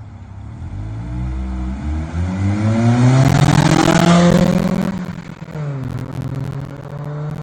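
A vehicle engine accelerating: its note climbs and grows loud to a peak about four seconds in, then drops back to a lower, steady note.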